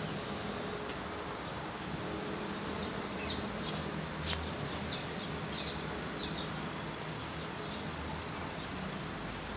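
Small birds chirping in short calls for a few seconds in the middle, over a steady low hum and hiss of street background, with a few sharp clicks.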